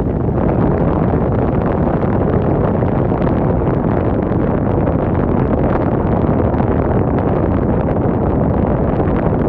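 Strong wind blowing against the microphone: a loud, steady rushing rumble, heaviest in the low end.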